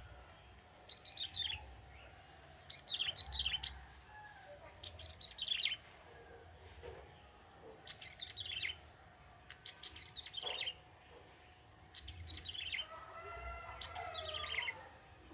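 Young male ciblek tebu, a prinia, singing in short bursts of quick, high chirps, about one phrase every two seconds. Near the end a lower, softer call runs underneath.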